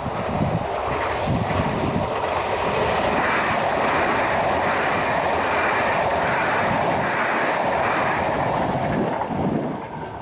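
Sm3 Pendolino electric tilting train passing at high speed: a steady rush of wheels on rail and air that builds over the first second or two, holds, and falls away about nine seconds in. Wind buffets the microphone.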